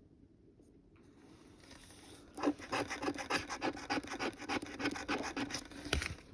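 Scratch-off lottery ticket being scratched: faint rubbing, then rapid, even back-and-forth scraping strokes, about five a second, ending with a light knock.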